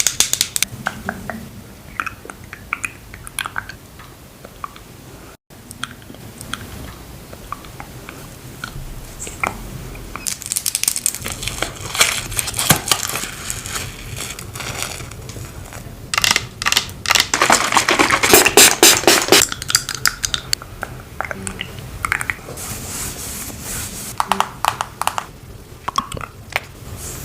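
Close-miked makeup products being handled: a series of small clicks and taps, with scratchy, crinkly stretches of rubbing. The longest and loudest scratchy stretch comes past the middle.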